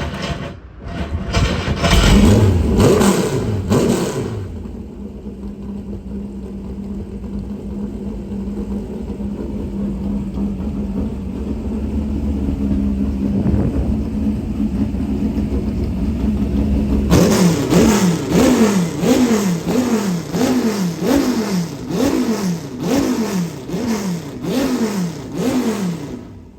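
Oreca Viper GTS-R race car's V10 engine, warmed up, revved a few times, then idling steadily and low. In the last third it is given a rapid series of about a dozen sharp throttle blips, each rev rising and dropping straight back.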